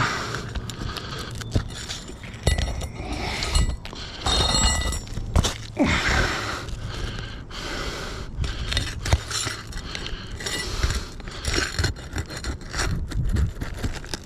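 Roofing shingles being pried up and their nails worked loose, heard as irregular scraping and sharp metal clinks.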